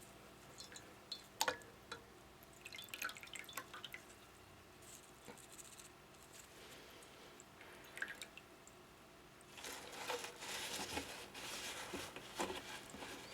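Faint water dripping and splashing with scattered light knocks as humidifier parts are cleaned and rinsed with water. The splashing grows denser about three-quarters of the way in.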